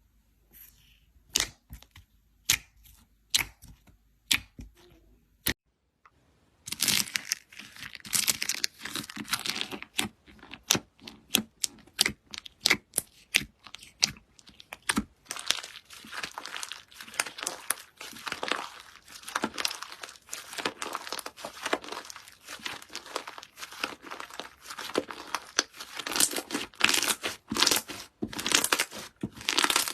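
Slime being handled: a few separate sticky pops in the first five seconds, then after a short pause dense, continuous crackling and clicking as it is worked.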